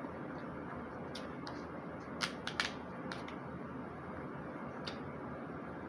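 Small sharp clicks and snaps from eating and handling food by hand, the loudest pair a little over two seconds in, over a steady background hiss.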